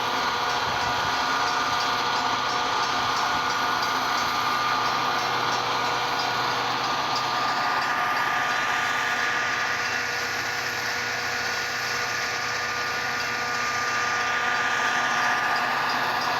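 Metra commuter train running steadily past, a continuous rolling noise with a thin steady high tone over it.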